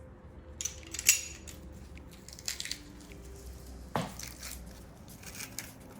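Garlic cloves being crushed and handled in the kitchen: scattered sharp clicks and taps, with one heavier knock about four seconds in.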